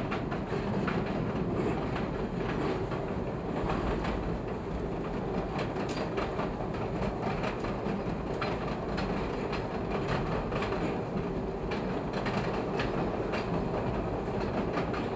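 Chicago 'L' rapid-transit train running along elevated track, heard from on board: a steady rumble with irregular clicks as the wheels pass over the rail joints.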